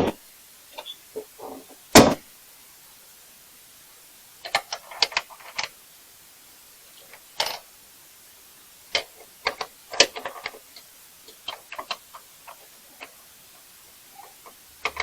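Scattered knocks, clicks and light rattles of hard objects being handled and set down, with two loud knocks at the start and about two seconds in.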